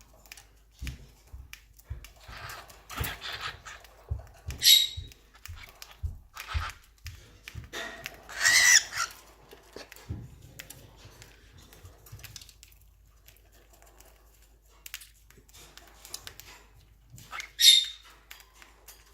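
Small pets eating from a hand: scattered small clicks and taps of nibbling and moving about, with three brief high-pitched squeaks or chirps, the longest about eight seconds in.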